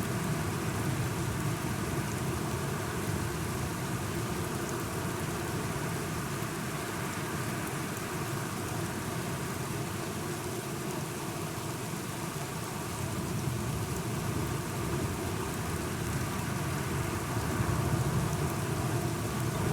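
Steady rain falling, with a low rumble underneath that swells slightly near the end.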